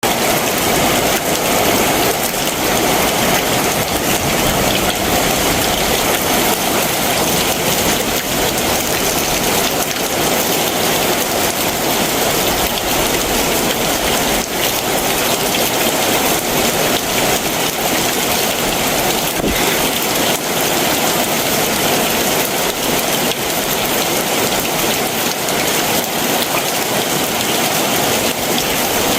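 Heavy summer monsoon rain pouring steadily, a dense, even patter of drops on surfaces.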